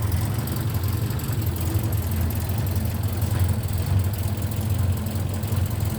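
1957 MG Magnette ZB's 1.5-litre four-cylinder B-series engine idling steadily.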